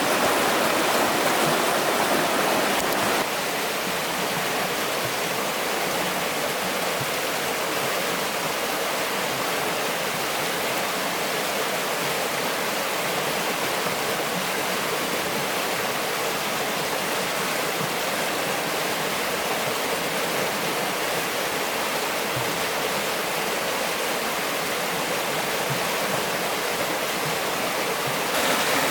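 Steady rushing of flowing stream water, an even noise that drops slightly in level about three seconds in and rises again near the end.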